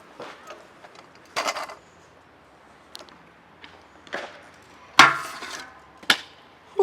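Stunt scooter clattering on concrete: a few scattered knocks, then a loud metallic clatter with brief ringing about five seconds in, and a sharp click a second later.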